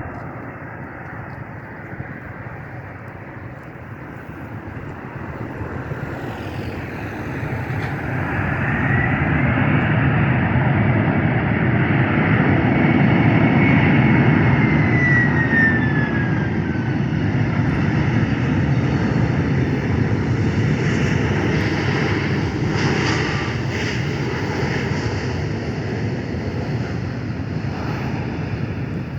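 Airliner's engines passing by. The engine noise swells to a peak about halfway through and then slowly fades, with a high whine that falls in pitch as the aircraft goes past.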